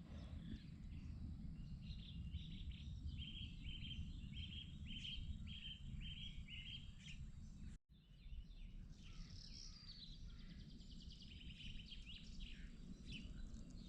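Birds singing faintly over a steady low background rumble. One bird repeats a short chirping note about ten times in a row, and after a brief break another bird gives a quicker trill.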